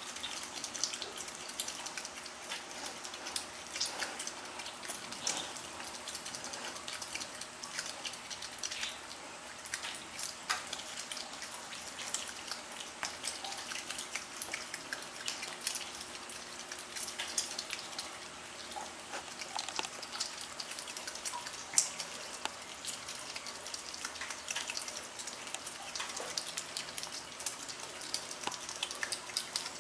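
Asian small-clawed otter eating, its chewing a steady patter of quick irregular clicks, with one sharper click about three-quarters of the way through.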